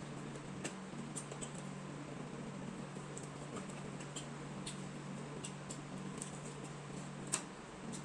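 Mukbang eating sounds: scattered small wet mouth clicks and smacks of chewing, with one louder click about seven seconds in, over a steady low hum.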